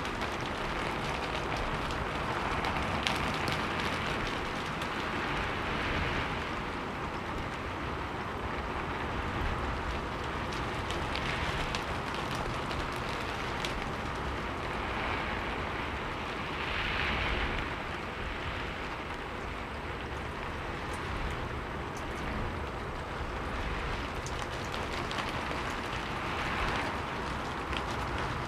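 Steady rain: an even hiss with scattered drop ticks, swelling briefly now and then.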